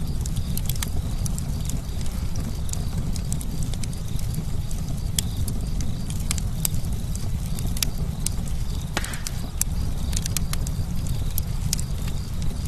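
Campfire crackling: irregular sharp pops and snaps of burning wood over a steady low rumble of the flames, with a short hissing flare a little after halfway.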